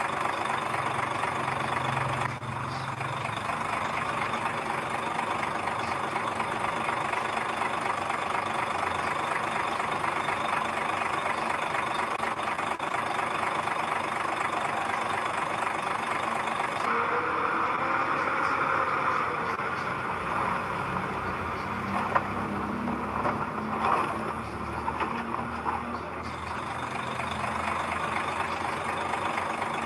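Heavy diesel engine of earthmoving machinery running steadily. A brief rising-then-falling whine comes just past the middle, then a couple of sharp knocks a few seconds later.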